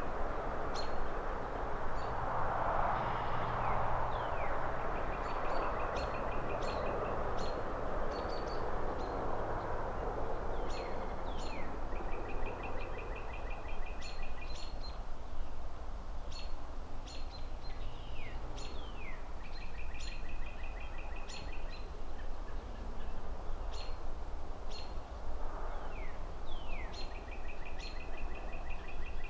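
Several birds calling over a steady low city rumble: a rapid trill repeated every few seconds, short sharp chirps, and quick falling whistles. A broad rushing sound under the birds swells about two to four seconds in.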